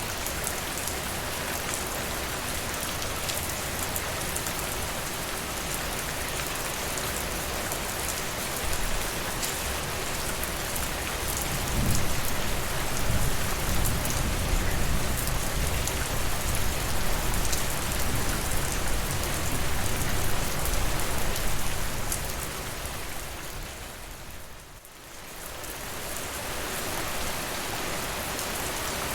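Steady rain falling, an even hiss. A low rumble swells underneath it from about 12 seconds in, fades out before 22 seconds, and the whole sound dips briefly near the end before returning.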